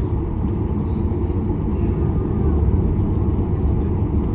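Steady low rumble inside the cabin of a Boeing 737-800 as its CFM56 engines run and the aircraft rolls for takeoff.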